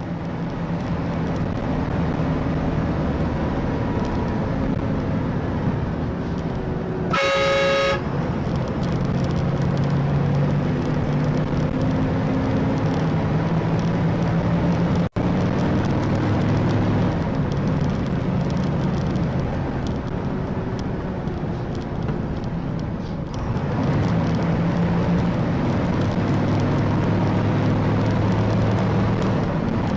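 Car engine and road noise while driving, with a car horn honking once, briefly, about seven seconds in.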